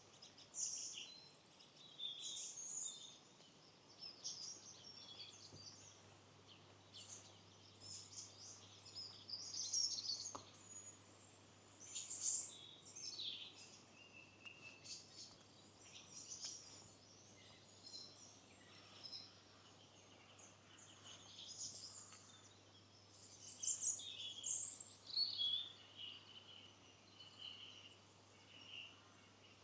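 Small songbirds singing and calling, many short high chirps and trills overlapping one another, with a few louder phrases about 10, 12 and 24 seconds in.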